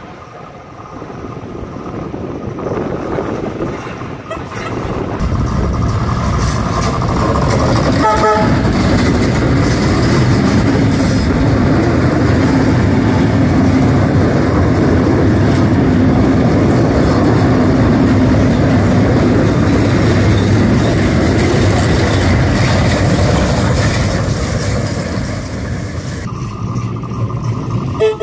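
Heritage train of steam locomotive K183 and wooden Tait carriages approaching and passing close by: a rumble and rattle of wheels on the rails that builds over the first several seconds, stays loud, then eases near the end. A short train whistle toot sounds about eight seconds in, and another comes right at the end.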